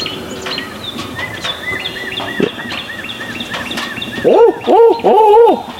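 A songbird singing a fast, even series of short high arched chirps. About four seconds in, a much louder series of low, arched calls breaks in and repeats to the end.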